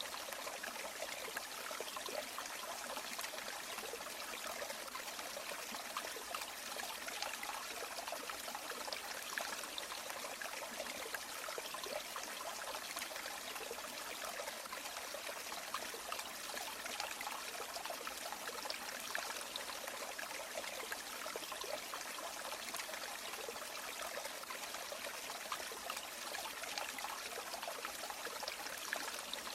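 A river or stream running over stones: a steady, even rush of flowing water with fine trickling detail.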